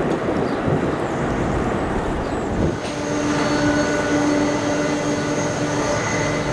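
Aircraft engines: a loud, even roar for the first few seconds, then an abrupt switch about three seconds in to a steady engine hum with a high, constant whine.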